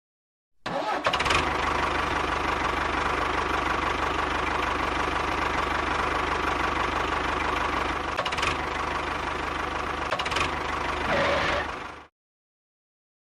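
A small motor running steadily with a fast, even chugging pulse. It cuts in abruptly about a second in, surges briefly a few times near the end, then cuts off suddenly.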